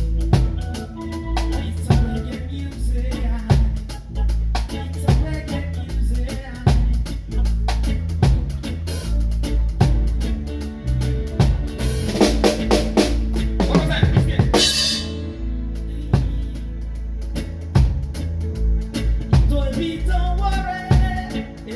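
Live reggae band playing an instrumental passage, the drum kit out in front: bass drum, snare and rimshot strikes over a steady deep bass line, with a cymbal crash about fifteen seconds in.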